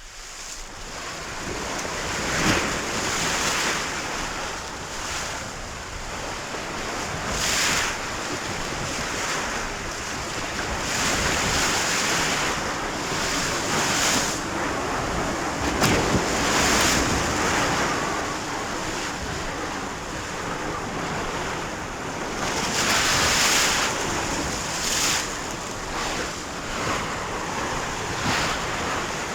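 Sea waves and wind: a continuous wash of rough water with a surge of spray every few seconds.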